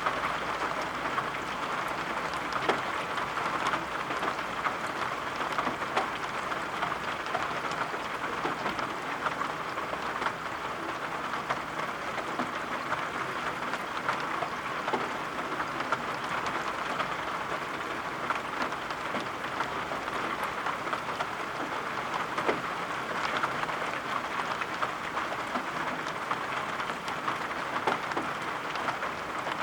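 Steady rain: an even hiss with scattered sharp ticks of drops landing.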